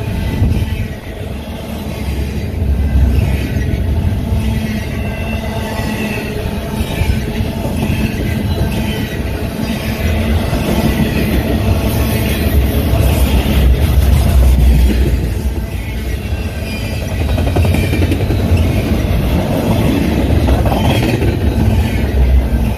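Union Pacific container freight train rolling past close by: a steady heavy rumble of wheels on rail with clatter, and a thin high squeal from the wheels now and then.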